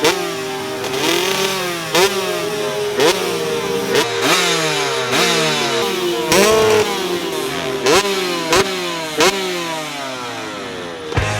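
Several motocross dirt bike engines running at once on a track, repeatedly revving up and dropping in pitch through gear changes, with sharp rev spikes about every second.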